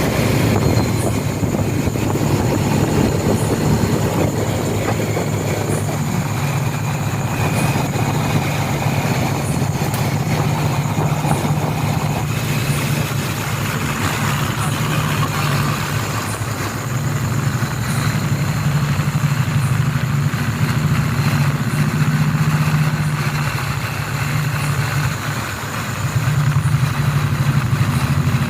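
A steady low motor hum, like an engine running, with a brief dip in level about three-quarters of the way through.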